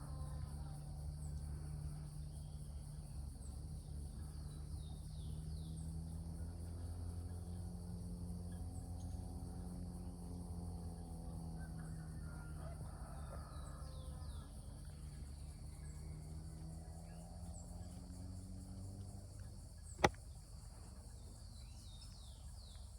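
Outdoor ambience: small birds chirping in short, high, falling notes over a low drone whose pitch slowly rises and falls, with one sharp click near the end.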